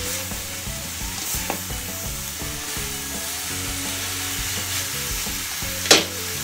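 Fresh egg noodles sizzling in a hot wok while a slotted spatula stirs and tosses them. There is a faint knock about a second and a half in and a sharp clack near the end, the spatula striking the wok.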